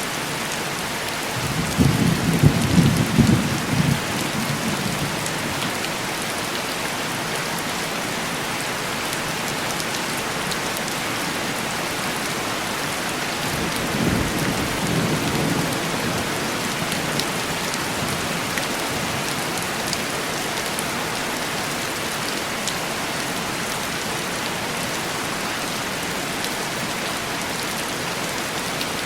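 Steady heavy rain tapping on window glass. A rumble of thunder comes about two seconds in, and a second, softer rumble about halfway through.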